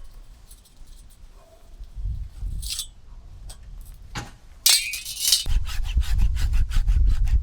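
Rapid back-and-forth scrubbing strokes, about four or five a second, cleaning resin and sawdust off the band-wheel belt and blade housing of a band sawmill. A sudden sharp scrape comes just before the scrubbing starts.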